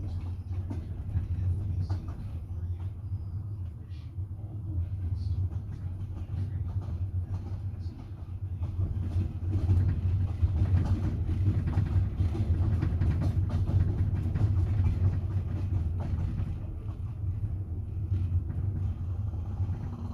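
Double-decker passenger train running, heard from inside the carriage: a steady low rumble with faint scattered clicks from the wheels on the rails.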